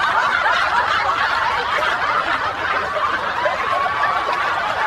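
Several people laughing together, a steady mix of overlapping chuckles.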